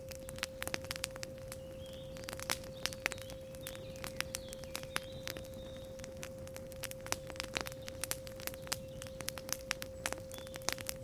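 Campfire crackling, with irregular sharp pops and snaps, over a steady 528 Hz pure tone.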